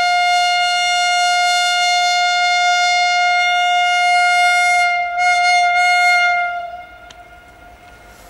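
Train locomotive air horn sounding one long, steady single-note blast that wavers briefly about five seconds in, then fades out.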